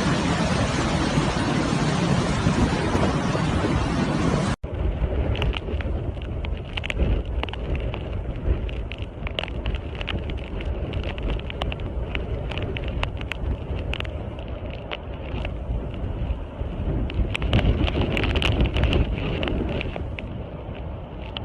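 Hurricane wind blowing across the microphone. About four and a half seconds in, the sound cuts to another recording of gusting wind buffeting the microphone, with a low rumble and scattered sharp ticks.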